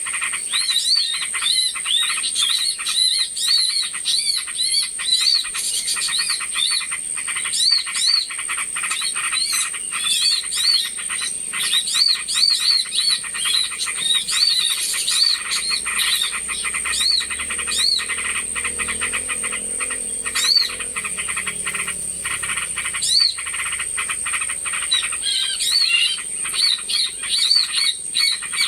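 Small-bird lure recording: many short, arched chirps repeating over a dense, fast ticking chatter, with a steady high-pitched buzz underneath.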